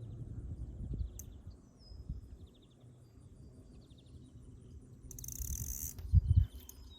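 Outdoor pond-side ambience: birds chirping in short repeated series over a steady high insect pulsing, with a low wind-like rumble. A brief hiss comes about five seconds in, then a couple of low thumps, the loudest sounds here.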